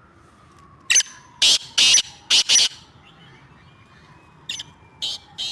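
Black francolin (kala teetar) calling: a phrase of five loud, harsh, clipped notes about a second in, then three fainter notes near the end.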